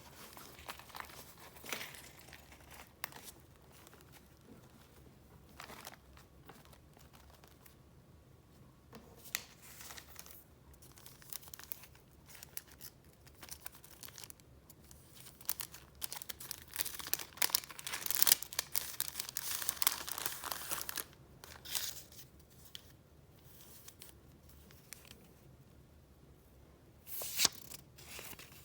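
Paper being handled and flipped through, rustling and crinkling in short bouts. A longer, louder stretch of crinkling comes about two-thirds of the way in, and a brief burst near the end.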